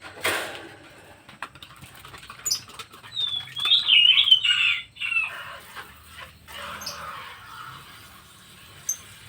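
Pet birds chirping: short high chirps, with one loud warbling call from about three to five seconds in, and a brief rustle at the start.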